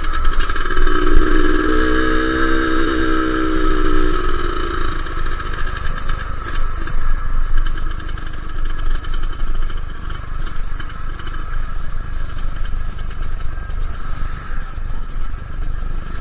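Suzuki Satria two-stroke motorcycle engine running steadily while ridden at low speed, with wind rumbling on the microphone. An extra pitched engine note sounds during the first five seconds or so.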